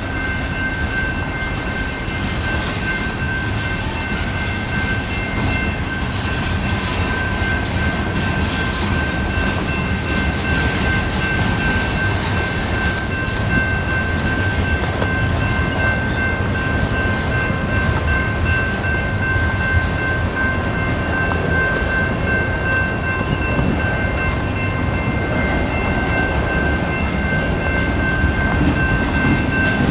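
Freight train cars rolling slowly past, a continuous low rumble of wheels on rail, with a steady high-pitched ringing tone held over it.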